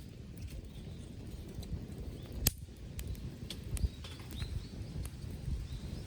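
Wood campfire crackling, with scattered sharp pops and one louder pop about two and a half seconds in over a low rumble of the burning fire.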